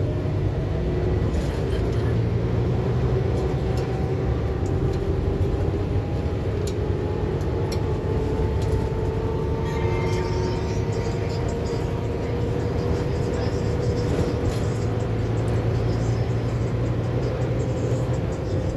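Scania K280UB4 city bus underway, heard inside the cabin: a steady engine and drivetrain rumble with a whine that rises slowly as the bus gathers speed, and light rattles of cabin fittings.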